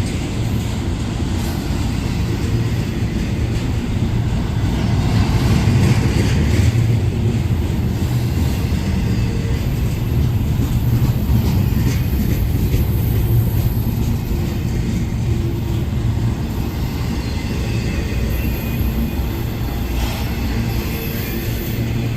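A train rolling past, with a diesel locomotive's engine running steadily under a continuous low rumble.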